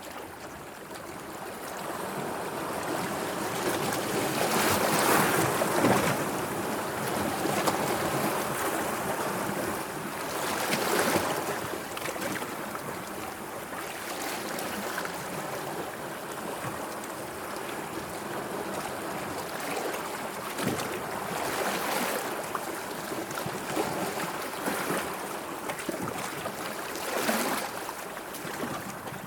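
Sea waves washing and lapping, a steady rush of water that swells into louder washes every several seconds, the loudest about five seconds in.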